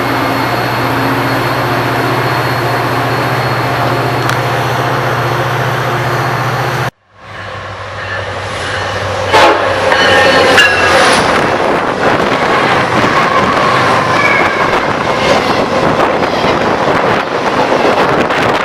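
Trains on a busy railroad mainline. First a steady train rumble with a low engine drone; then, after an abrupt cut, another train builds up and passes with rail clatter and thin whining tones.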